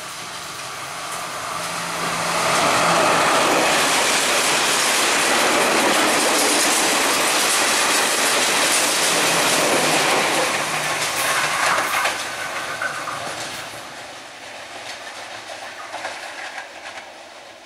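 Diesel passenger train passing close at speed, its wheels clattering over the rail joints. The noise builds over the first two seconds, stays loud for about ten seconds, then dies away after about 12 s.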